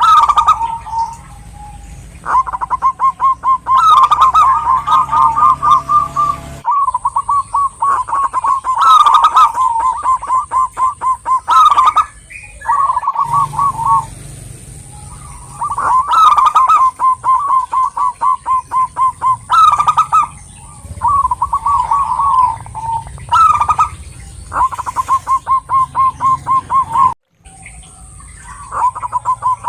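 Zebra dove (perkutut) singing: phrase after phrase of rapid, rolling cooing notes, each phrase lasting a few seconds with short pauses between, over a faint steady high tone.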